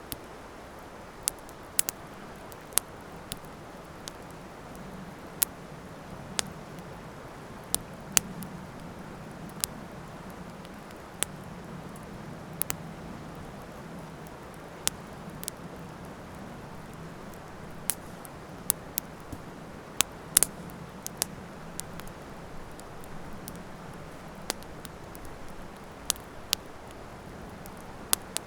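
Wood campfire burning: irregular sharp crackles and pops, one louder pop about two-thirds of the way through, over a steady soft hiss.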